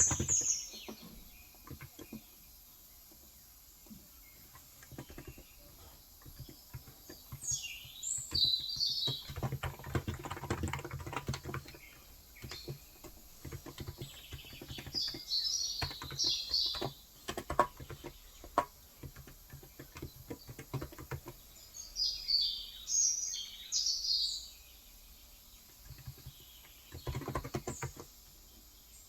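Typing on a Cox Endeavour electro-capacitive (non-contact) 35 g tenkeyless keyboard, in bursts of rapid key clicks, the densest runs about a third of the way in and near the end. Small birds chirp in short clusters several times between the typing.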